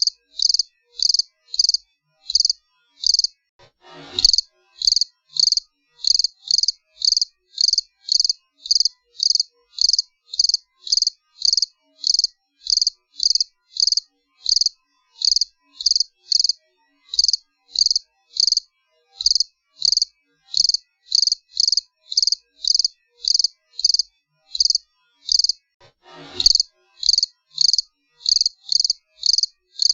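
A cricket chirping steadily in an even rhythm of about two to three short, high chirps a second. Twice, about four seconds in and near the end, a faint brief whoosh falls away under the chirps.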